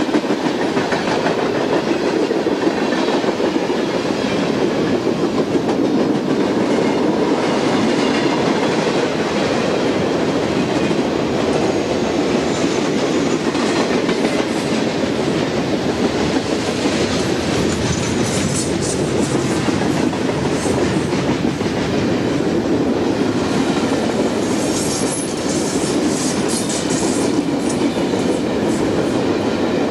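A train rolling past close by, its wheels running steadily over the rails for the whole stretch. Some brief high-pitched noise comes and goes in the second half.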